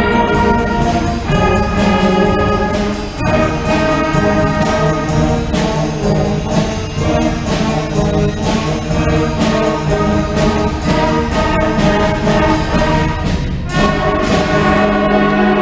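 School concert band playing live, with brass and woodwinds sounding chords over a steady percussion beat. The band drops out briefly near the end, then comes back in with held brass chords.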